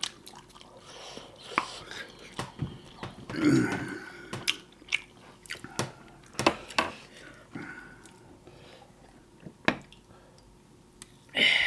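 Close-up eating sounds: chewing and biting, with scattered sharp mouth clicks and smacks, a brief voice sound about three and a half seconds in, and a louder breathy noise near the end.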